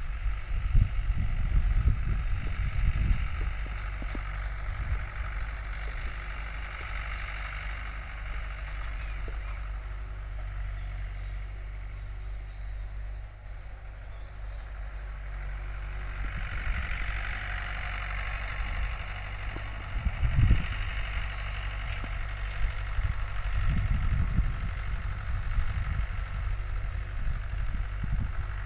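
Tractor engine running steadily, with louder low rumbles in the first few seconds and again twice in the last third.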